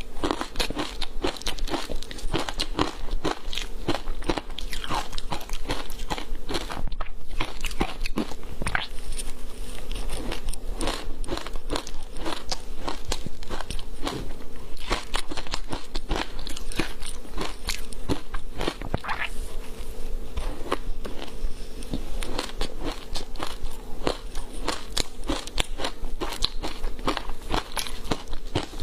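Frozen matcha green tea ice being bitten and chewed close to the microphone: dense, irregular crunching and crackling that goes on without a break.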